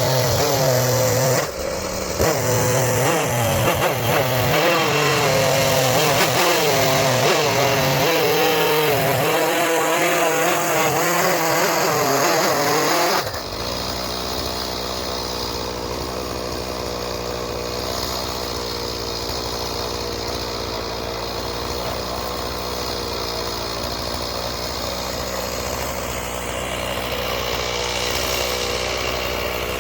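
Chainsaw running under load, its pitch wavering up and down as it cuts. About 13 seconds in it changes suddenly to a quieter, steadier note.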